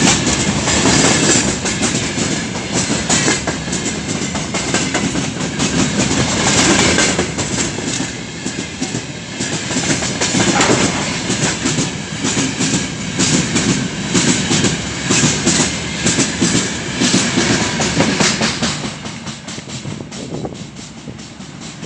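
Freight train rolling past, its wheels clattering rapidly over the rail joints. The sound fades away near the end.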